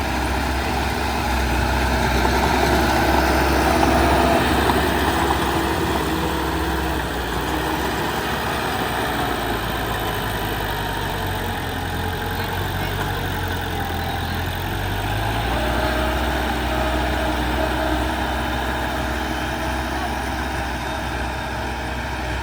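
Heavy diesel engine of earth-moving machinery running steadily, loudest a few seconds in, with its tone shifting about two-thirds of the way through.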